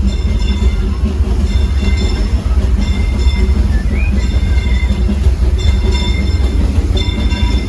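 A passenger car of the Disneyland Railroad steam train rolling along the track, heard from on board: a steady low rumble, with high squealing tones coming and going every second or so.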